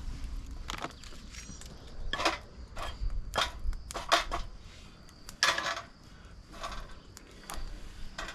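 A series of irregular clattering knocks and short scrapes, as of hard objects being handled, over a faint steady high tone.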